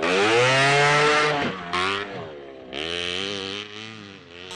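1/5-scale HPI Baja 5B's 29cc two-stroke engine revving in two throttle bursts: the first, loudest one rises in pitch and falls away about a second and a half in, and a second, weaker burst comes near the end.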